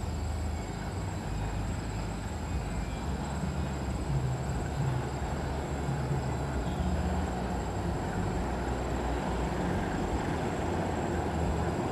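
Diesel-electric locomotive hauling a passenger train, its engine rumbling steadily and growing a little louder as the train approaches.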